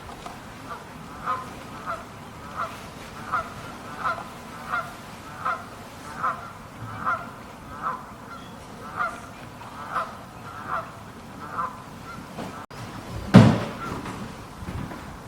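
A bird giving a short honking call over and over, about fifteen calls at a steady pace of a little more than one a second, then a single loud thump near the end.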